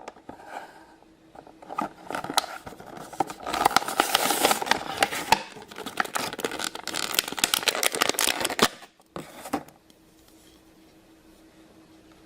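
Crackling and scraping of a diecast toy car being handled in its plastic packaging, with many small clicks, stopping shortly before ten seconds in. A faint steady hum remains afterwards.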